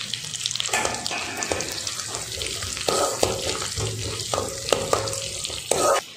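Cashews frying in hot ghee with ginger, green chilli, cumin and pepper: the tempering for venpongal. It is a steady sizzle full of fine crackles, with a spoon scraping and stirring against the metal pan several times. The sizzle cuts off just at the end.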